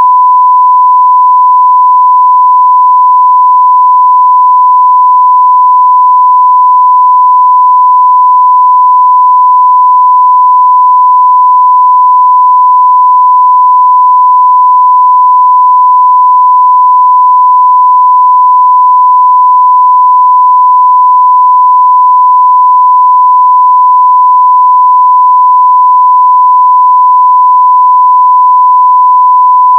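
A 1 kHz sine-wave test tone at 0 dB full scale, one pure steady pitch held without change.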